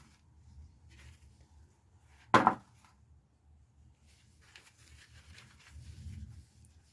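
Freshly harvested potatoes being sorted by hand: faint rustling and handling, with one sharp knock about two seconds in.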